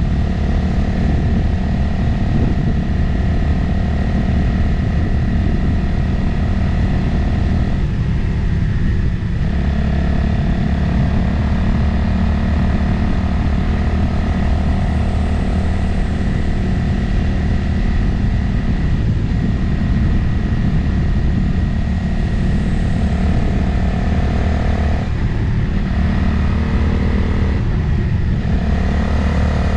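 Motorcycle engine running at a steady cruise with wind noise rushing over the action-camera microphone. The engine note briefly drops and changes a few times, once about 8 seconds in and twice near the end.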